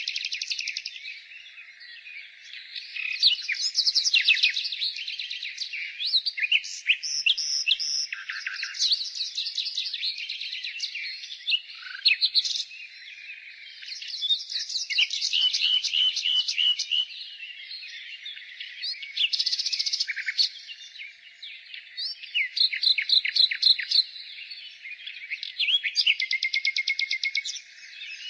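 Nightingale singing: varied phrases a few seconds long, some made of rapid runs of repeated notes, with short dips between phrases.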